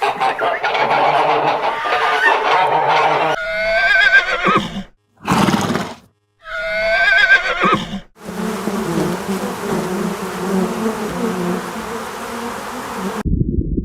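A horse whinnying twice, each call wavering and falling away, separated by brief silences; after that comes a steady buzzing hum that cuts off suddenly near the end.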